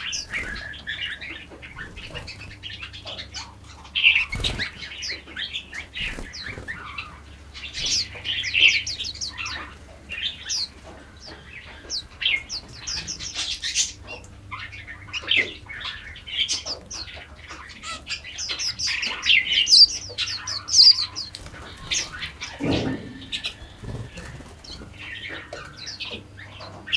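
Several small songbirds chirping and singing at once, with overlapping rapid trills and short high notes. A brief low thump comes about four seconds in.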